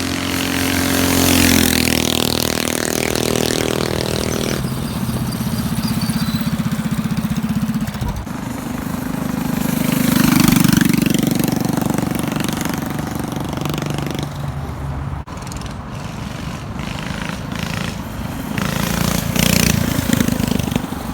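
Small mini bike engine running and revving, rising and falling in pitch and level. It swells loudest around a second or two in, again about ten seconds in, and once more near the end.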